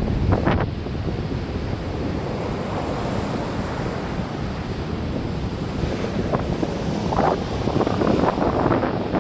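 Rough sea waves breaking and washing on the shore in strong wind, with wind buffeting the microphone. The surf is steadier in the middle and crashes louder near the start and again toward the end.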